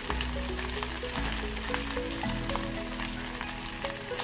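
Rice sizzling as it fries in a hot pan, with a wooden spoon stirring it near the end, under instrumental background music with a steady bass line.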